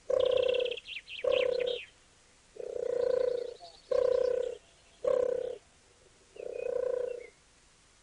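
Bird calls: six low, even-pitched calls, each about half a second to a second long, at roughly one-second spacing. High, quick chirping trills sound over the first two seconds and faintly again later.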